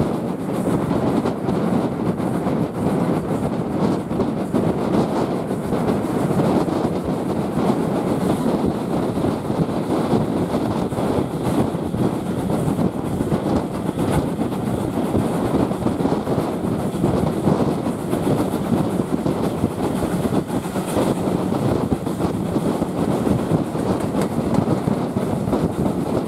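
Heritage railway passenger coach running along the line, heard from an open carriage window: a steady rumble and clatter of wheels on the track.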